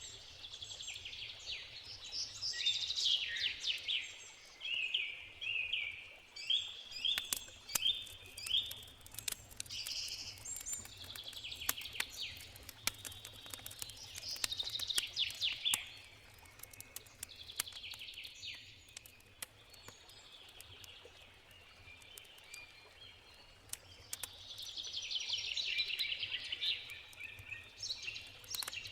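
Songbirds singing in repeated trilled, chirping phrases, with the sharp pops and crackles of a wood campfire scattered through, thickest midway.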